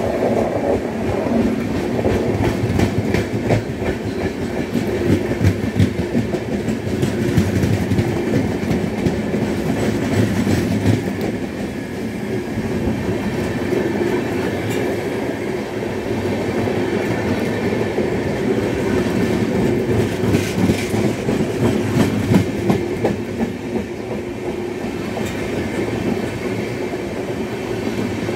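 Indian Railways passenger train passing close on the adjacent track: a steady rumble with the clickety-clack of its coaches' wheels over the rail joints.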